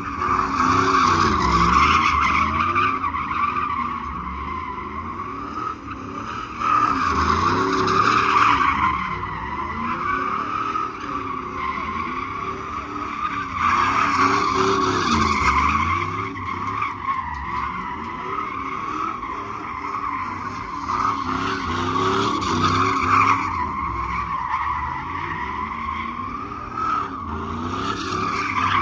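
A truck doing a burnout: tyres squealing steadily while the engine revs rise and fall over and over, with louder surges of tyre noise about every six or seven seconds.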